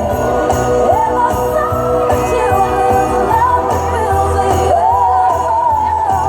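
Christmas song with jingling sleigh bells and a singing voice carrying the melody over a steady backing.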